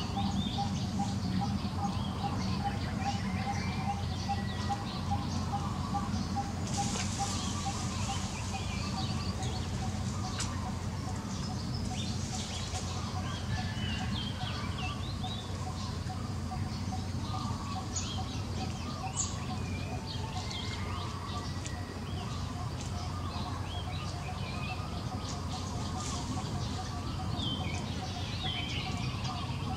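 Outdoor ambience of birds chirping and calling, over a steady low rumble, with a rapidly repeated pulsing note, about four a second.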